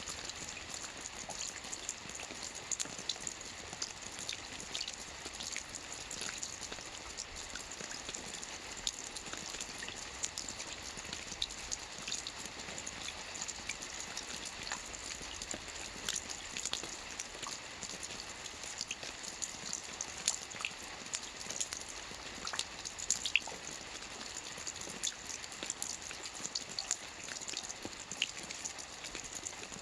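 Steady rain falling on a lake's surface: a continuous hiss with many small, irregular drop ticks.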